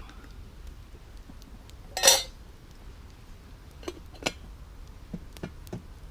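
Metal camp cookware clattering: one loud clank about two seconds in, then several lighter clinks.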